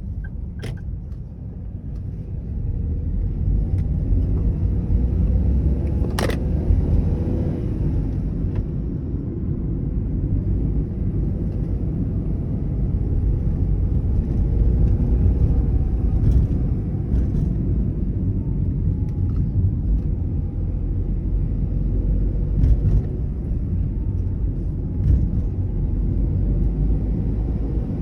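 Car being driven: a steady low rumble of engine and road noise, with a sharp click about six seconds in and a few fainter ticks later.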